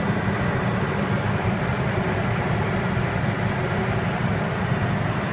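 Steady cockpit noise of an aircraft with its throttle pulled back to idle, the engine idling under a constant rush of airflow as the plane glides without power.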